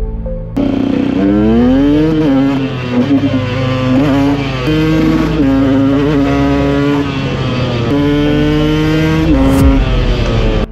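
KTM EXC 125 two-stroke dirt bike engine accelerating hard through the gears: the pitch climbs and then drops at each shift, several times over. It comes in suddenly about half a second in.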